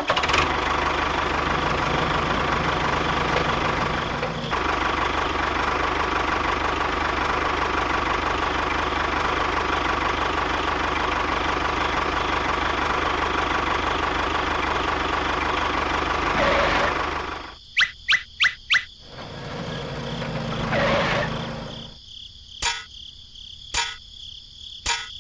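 A small motor running steadily, stopping abruptly after about seventeen seconds, followed by a few sharp clicks and ticks.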